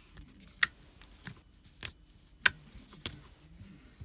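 Slime being squeezed and stretched by hand, giving about five short, sharp clicks and pops spread over a few seconds.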